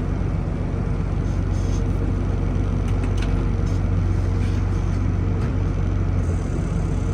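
Farm tractor engine running steadily under load, a constant low drone while the feeder wagon is filled.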